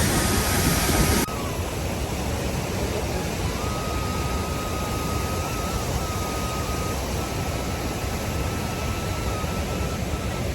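Steady rushing noise that drops in level and changes character suddenly about a second in. A thin, steady high tone runs through the later part.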